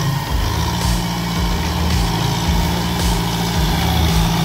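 Kubota M6040SU tractor's four-cylinder diesel engine running steadily as the tractor works through soft, muddy ground.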